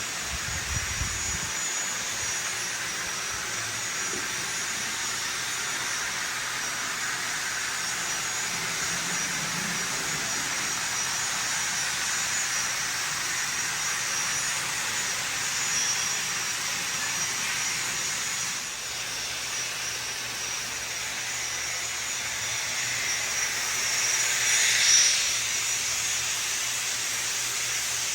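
Steady jet-like hiss of a model gas turbine locomotive's sound system: an N scale Union Pacific GTEL 8500 "Big Blow" turbine running under way. The hiss swells louder briefly about 25 seconds in.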